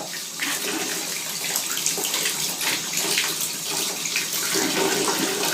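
Water running steadily from a tap, filling a bathtub: a constant rushing hiss.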